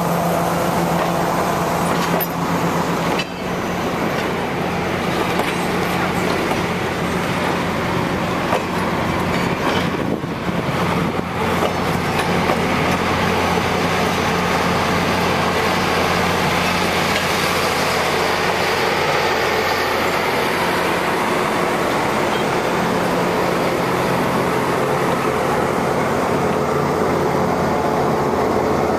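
Passenger train coaches rolling past on the rails with a steady noise of wheels and running gear, under the steady low drone of a diesel locomotive's engine. The locomotive at the end of the train draws alongside near the end.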